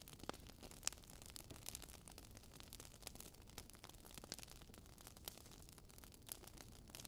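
Campfire crackling: wood burning with irregular sharp pops and snaps, roughly one a second, over a faint steady hiss.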